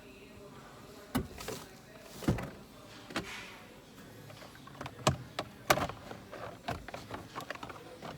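Irregular clicks, taps and knocks of hand-tool work on the plastic steering column trim as a screw is backed out. The loudest knock comes a little past the middle.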